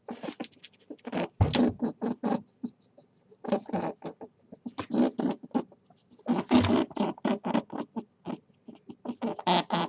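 A small animal making rapid, short scratchy sounds, about five strokes a second, in several bursts with brief pauses.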